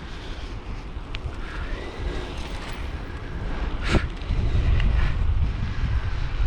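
Wind buffeting the microphone during a bicycle ride, a steady low rumble. A sharp knock comes about four seconds in, after which the buffeting grows louder.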